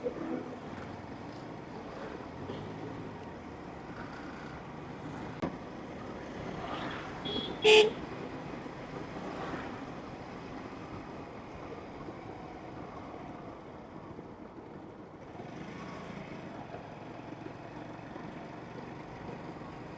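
Steady road and traffic noise while riding, with one short vehicle horn toot about seven and a half seconds in.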